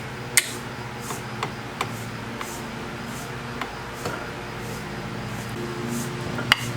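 Scattered light clicks and taps of hand tools on engine parts over a steady low hum, then the first sharp hammer blow near the end.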